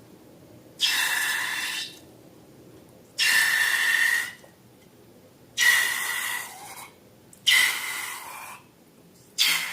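Five breathy hissing bursts, each about a second long, coming every two seconds or so; each starts suddenly and fades out.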